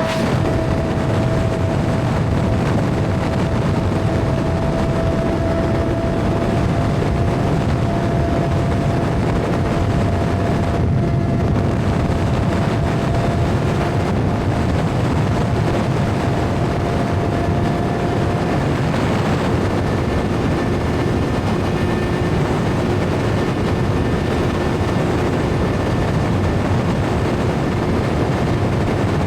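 Suzuki GSX-R750 motorcycle riding at steady cruising speed: heavy wind rush over the helmet-mounted microphone, with a steady engine drone that climbs slightly in pitch over the first two thirds.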